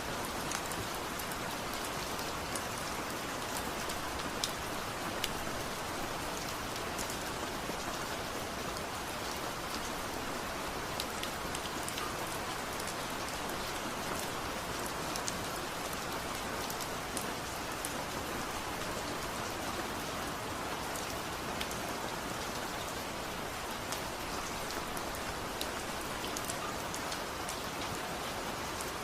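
Steady rain falling, with many small drop ticks scattered through the even hiss.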